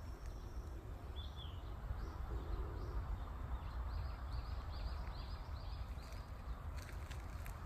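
A small bird calling in the distance: a couple of short chirps, then a run of about seven quick repeated notes. A steady low rumble lies beneath, and a few faint clicks come near the end.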